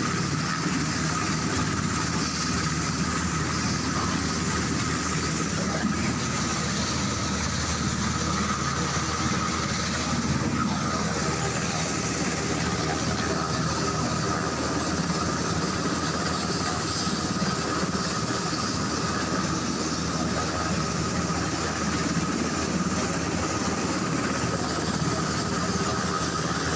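UH-60 Black Hawk helicopter's twin turboshaft engines running steadily on the ground, a steady high turbine whine over a broad rush of engine and rotor noise.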